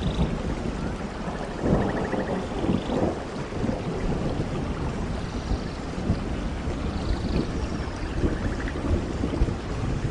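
Steady rainfall with low thunder rumbling in the background, swelling about two seconds in. A faint rapid trill sounds twice over the rain, once early and once near the end.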